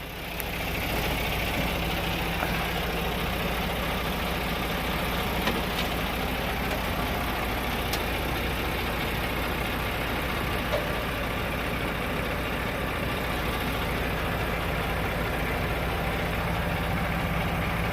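Mack Anthem semi truck's diesel engine running steadily, growing louder over the first second and then holding even.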